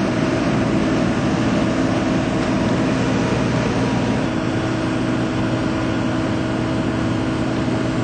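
Steady engine-like machine drone with a constant low hum, running evenly without change in speed.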